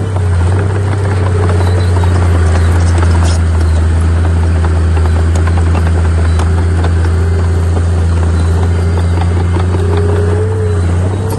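Heavy earthmoving machinery's diesel engine running steadily under load, a loud low drone with a scatter of clanking and rattling over it.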